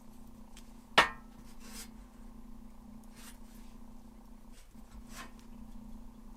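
A steady low hum with one sharp click about a second in, followed by a few soft, short hissing rustles.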